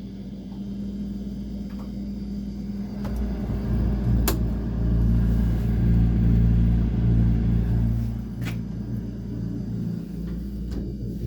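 Vintage Kelvinator refrigerator's R12 compressor running with a steady low hum, just fired up after sitting unused. The hum swells louder through the middle, and two sharp clicks come about four and eight and a half seconds in.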